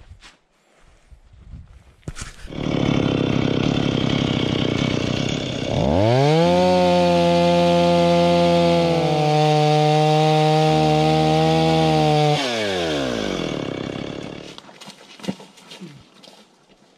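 Chainsaw running at idle, then revved up to full throttle with a rising whine and held there for several seconds while cutting wood. Its pitch dips slightly partway through. It then winds down and falls silent about two seconds before the end.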